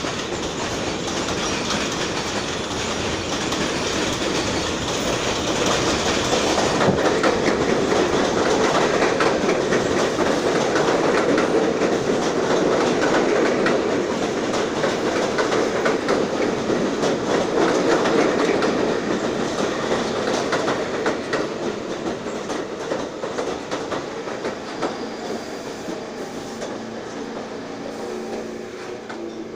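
R46 subway train running through the station, its wheels clattering over the rail joints; the sound builds, is loudest in the middle, and fades away over the last ten seconds or so.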